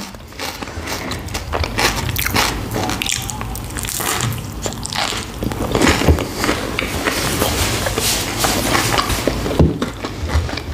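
Close-miked biting and chewing of a hot toasted sandwich, with many short crunches and wet mouth clicks.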